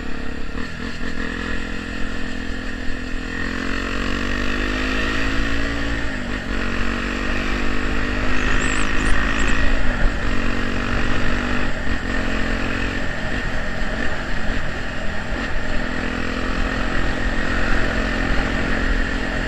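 Honda XR 250 Tornado's single-cylinder four-stroke engine with an aftermarket Pro Tork muffler, running under way; the engine note climbs, then dips briefly about four times. The rider calls it very loud.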